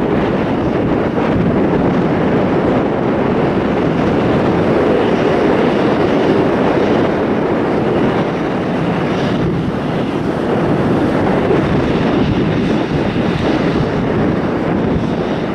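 Jet airliner engines running with a loud, steady rushing roar, mixed with wind on the microphone.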